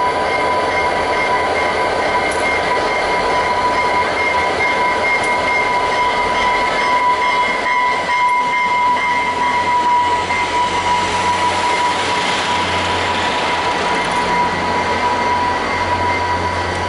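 VIA Rail passenger train rolling into the station, a steady rumble of wheels on rail with a continuous high-pitched squeal over it. The low running of the diesel locomotive grows louder in the second half.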